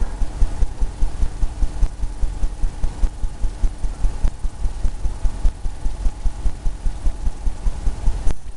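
Paintbrush dabbing against a canvas on the easel in a steady rhythm, about three low thumps a second, as water and waves are painted in.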